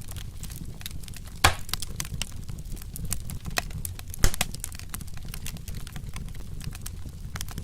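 Wood fire crackling, with a steady low rumble of the flames and two louder pops, one about a second and a half in and another about four seconds in.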